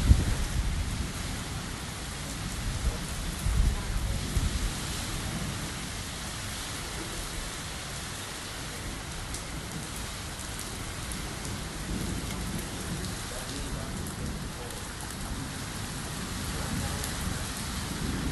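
Steady rain falling, with a few low rumbles in the first five seconds.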